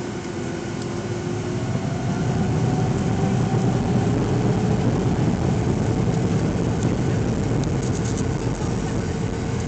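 Jet airliner engines heard from inside the cabin: a low rumble swelling over the first few seconds and then holding, with a whine that slowly rises in pitch.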